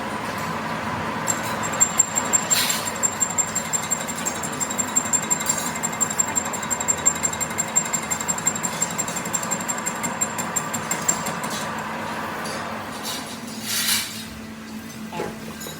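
Workshop machinery running with a steady hum and a thin high whine, over a rapid, irregular run of sharp clicks that lasts about ten seconds, then dies down to the hum with a couple of short knocks near the end.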